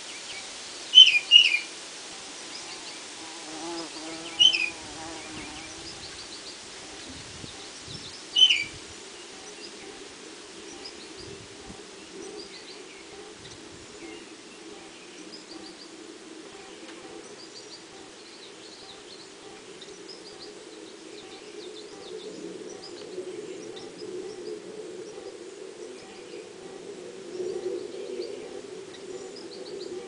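Songbird chirping: three loud, short, sharp chirps in the first nine seconds, the first a quick double, then fainter chirping. A steady low buzz runs underneath and grows a little louder near the end.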